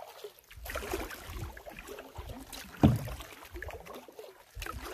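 Canoe being paddled: paddle strokes and water splashing and dripping off the blade, with one sharp knock about three seconds in.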